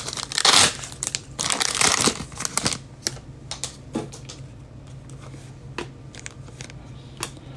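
A foil trading-card pack wrapper crinkling in the hands for the first few seconds, then scattered light clicks and taps as the cards are handled.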